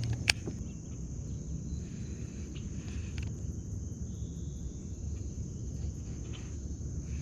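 Steady high-pitched drone of summer insects, with a single sharp click about a third of a second in and a low rumbling background.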